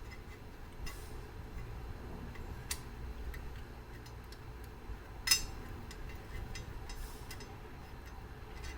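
Small, unevenly spaced clicks and taps from a Mauthe grandfather clock movement, with one sharper click about five seconds in, over a low steady room rumble.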